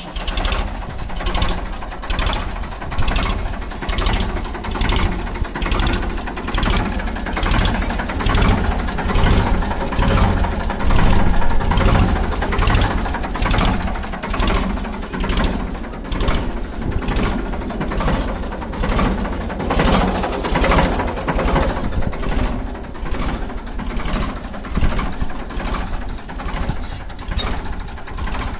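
Ford 3600 tractor's three-cylinder engine running steadily with an even, pulsing beat, getting louder for a few seconds around the middle.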